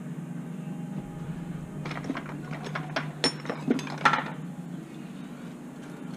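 A cluster of sharp metallic clicks and clinks of hand tools working on a car's rear brake caliper, loudest about four seconds in, over a steady low hum.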